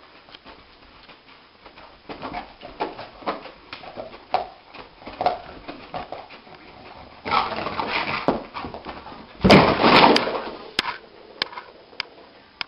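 A sleeping dog whimpering and yipping softly in its sleep, dreaming, while its paws scrape on the carpet. Louder scuffling comes about halfway through, and the loudest burst of noise around ten seconds in, as the dog scrambles to its feet.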